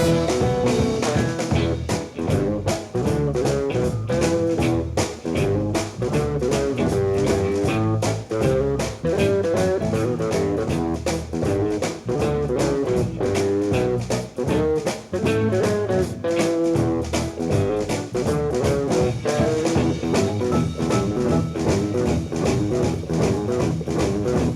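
A band playing a blues-jazz tune, with guitar lines over a steadily played drum kit.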